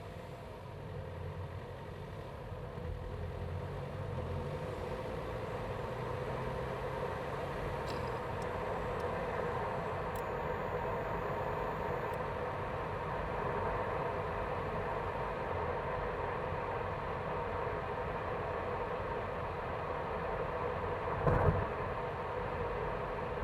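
BMW B48 turbocharged 2.0-litre four-cylinder engine running steadily with a constant whine, heard from inside the engine bay. There is one short thump about 21 seconds in.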